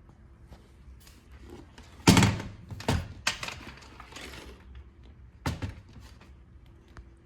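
Knocks and clatter of objects being handled: a loud knock about two seconds in, two more about a second later, and another about five and a half seconds in.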